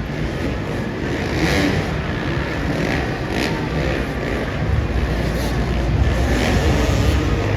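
Motocross motorcycle engines running and revving in a continuous noisy din, getting a little louder about five seconds in.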